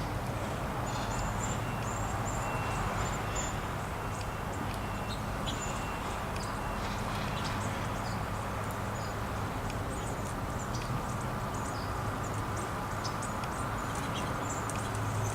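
Small songbirds at a feeder chirping, many short high calls scattered throughout, over a steady low hum and background hiss.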